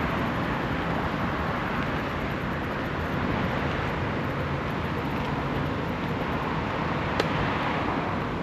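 Steady rushing street noise heard from a moving bicycle on a GoPro, with one sharp click about seven seconds in.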